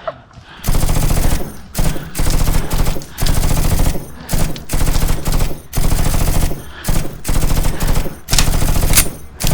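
Airsoft gun firing in full-auto bursts close to the microphone: about a dozen bursts of rapid shots, most under a second long, with short pauses between, starting about half a second in.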